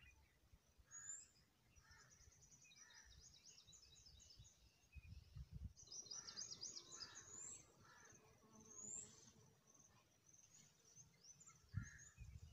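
Faint birdsong outdoors: small birds giving rapid high trills and short rising chirps, with a few low rumbles underneath.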